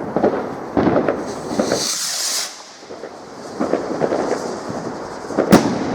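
Fireworks going off: a run of crackling pops, a hissing rush about two seconds in, and a single sharp bang near the end.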